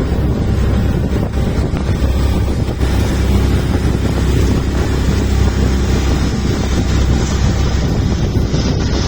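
A boat's motor running steadily with a low rumble, while wind buffets the microphone.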